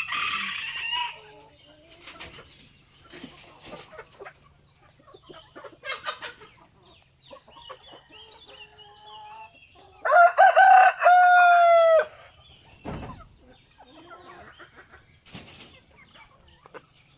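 A rooster crows once, a loud call of about two seconds just past the middle, with its pitch dropping at the end. Hens cluck now and then around it.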